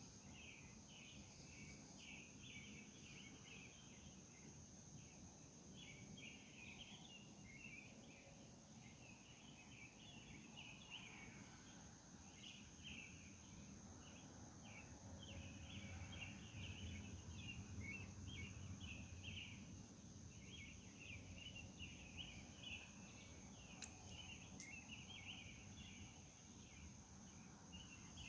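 Faint night insects chirping in rapid, irregular clumps over a steady high-pitched whine. A faint low rumble swells about halfway through and then fades.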